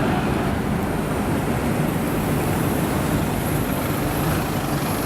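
Street traffic noise with a car engine running steadily.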